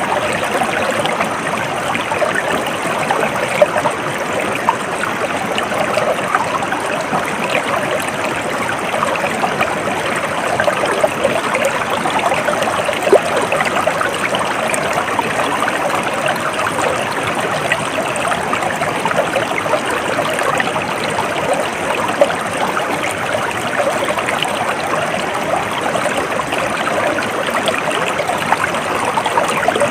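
A shallow stream babbling and splashing steadily over stones, with a few sharper splashes standing out now and then.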